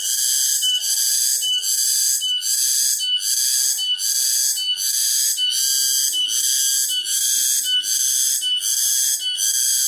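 Cicadas singing: a loud, high-pitched buzz that pulses evenly, about two to three pulses a second.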